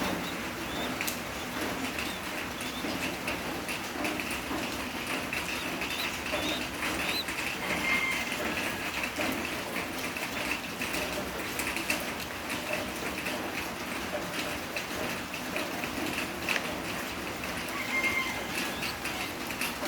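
A baby bird cheeping steadily, a high twittering with many short chirps.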